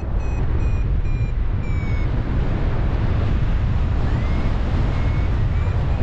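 Heavy wind rushing over the microphone in flight on a paraglider, with a flight variometer beeping over it: a run of short beeps about two or three a second at first, a couple of rising chirps, then the beeps resume near the end. Beeping like this is the variometer signalling that the glider is climbing in lift.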